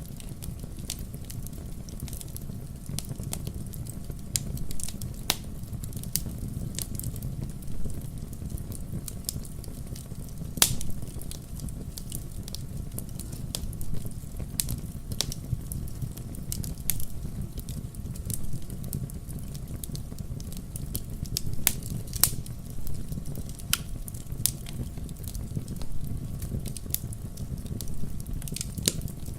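Wood fire burning in a fireplace: a steady low rumble of the flames with irregular crackles and sharp pops, a few louder snaps standing out.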